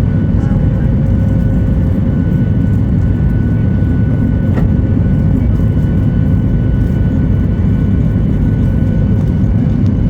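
Steady, loud rumble of a Boeing 737-8200's CFM LEAP-1B jet engines and rushing air heard inside the passenger cabin, with a few faint thin whining tones over it, during departure. A faint click sounds about halfway through.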